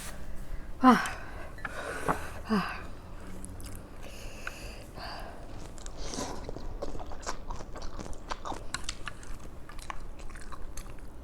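Close-miked chewing of food, with many small wet smacks and crunchy clicks. Two short falling vocal sounds, like hums, come in the first few seconds.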